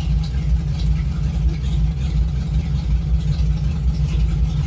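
Ranger pickup's engine idling steadily through its homemade welded exhaust, a low, even running sound.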